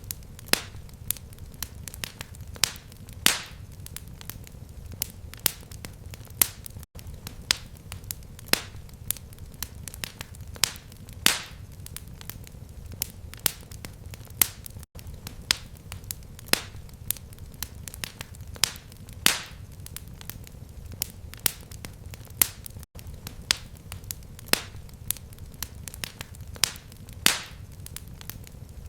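Fireplace fire crackling: irregular sharp pops and snaps, a few louder than the rest, over a steady low rumble of flames. The sound drops out very briefly about every eight seconds.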